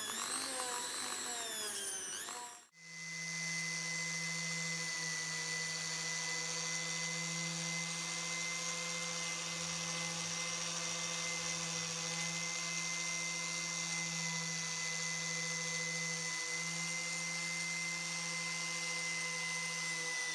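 Electric power tool motor running. For the first couple of seconds its pitch wavers up and down as the load changes; then, after a brief dropout, it runs steadily at one pitch.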